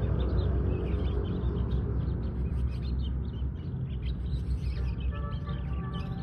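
Canary singing: a fast, continuous run of short high chirps and trills over a steady low rumble. Background music with held notes comes in near the end.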